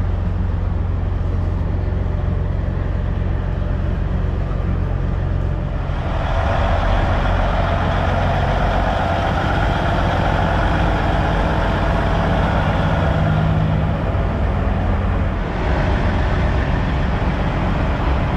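Heavy diesel truck engine idling steadily. From about six seconds in, a louder noise in the middle range rises over it for about nine seconds, then drops back.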